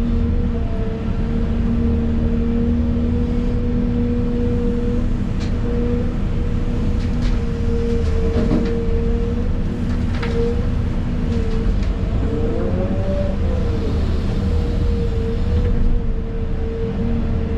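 Excavator's diesel engine and hydraulic pump running under load, heard from inside the cab: a steady low rumble with a constant whine, the pitch swelling up and back down briefly about three-quarters of the way through. A few short knocks sound in between.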